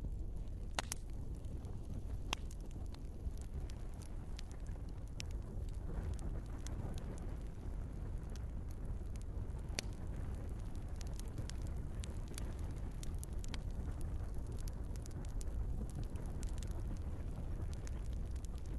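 Wood fire crackling in a fireplace: a steady low rumble of burning logs with scattered sharp pops, a few of them louder.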